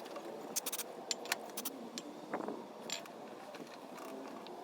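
Several sharp clinks and taps, a cluster in the first two seconds and another near three seconds in, over a faint steady background.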